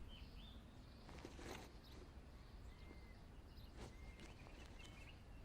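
Near silence: faint outdoor ambience with a few soft, brief bird chirps and a couple of light knocks.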